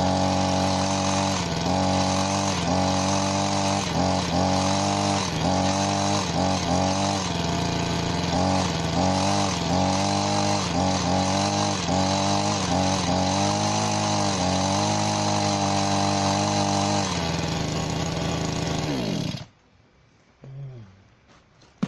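Spear & Jackson SPJHT26 hedge trimmer's small two-stroke petrol engine running, its pitch dipping briefly and recovering over and over, then cutting out about nineteen seconds in. A faint knock and a click follow.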